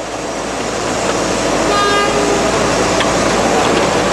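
Loud, steady steel-foundry noise that grows louder over the first second or so, with a short horn toot about two seconds in.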